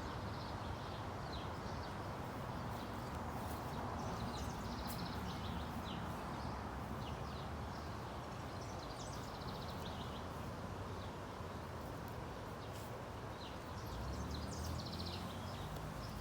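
Outdoor ambience: birds chirping repeatedly over a steady background hiss and low rumble, with a faint low hum near the end.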